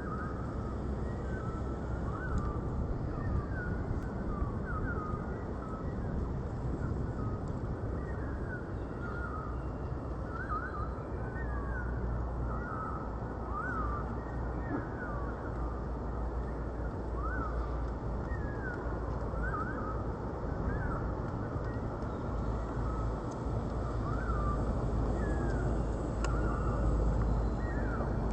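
River water flowing in a steady rush, with birds calling in short chirps again and again over it.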